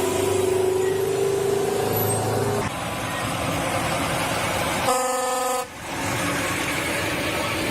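Heavy truck's diesel engine running steadily with a whine that cuts off about two and a half seconds in, then a short air-horn blast about five seconds in.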